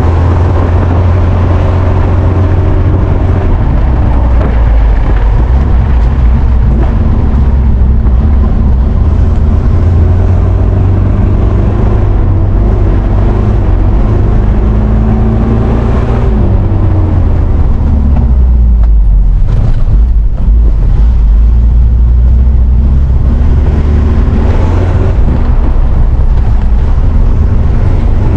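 Mitsubishi Pajero Dakar SUV engine running under load while driving off-road, the revs rising and falling; the engine note drops about two-thirds of the way through and then picks up again.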